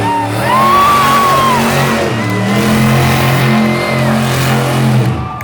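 Monster truck engine running loud and revving, its pitch stepping up and down several times, with a high arching whine above it.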